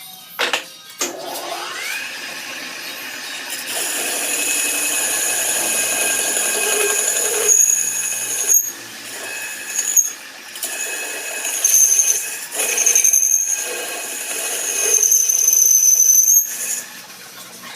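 A metalworking machine spins up, its pitch rising over about a second, then cuts metal with a steady high-pitched screech that swells and dips several times before stopping near the end.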